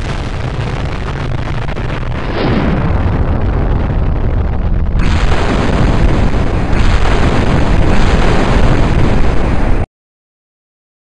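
Loud, continuous explosion-like roaring noise, spliced into segments that each get louder, then cutting off suddenly near the end.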